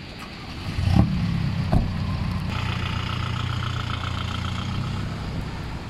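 Volkswagen New Beetle's engine starting about a second in, then idling steadily, with a short thump just after it catches.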